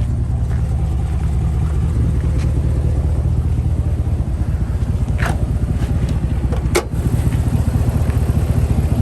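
A vehicle engine idling steadily with an even low pulse. Two short, sharp noises cut in, one about five seconds in and one about seven seconds in.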